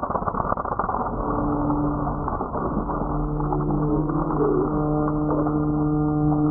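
Vehicle engine running with a rough rumble, settling about a second in into a steady, even drone held at one pitch.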